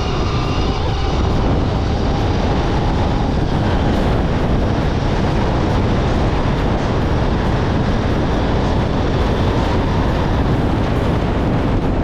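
Heavy wind rush buffeting the microphone while riding a Gowow Ori electric dirt bike, with the electric motor's faint whine fading out within the first second or so.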